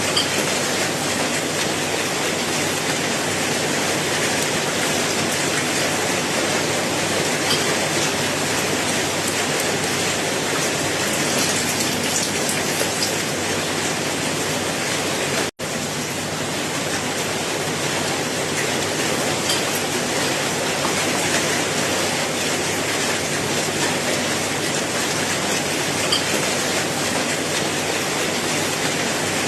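Steady, heavy rain falling as an even hiss, with faint scattered drop ticks. The sound cuts out for a split second about halfway through, then resumes as before.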